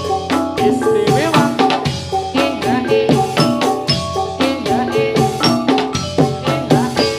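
Gamelan music accompanying a jathilan horse dance: struck metallophones ringing a steady melody over drum strokes, many of the tones sliding up or down in pitch.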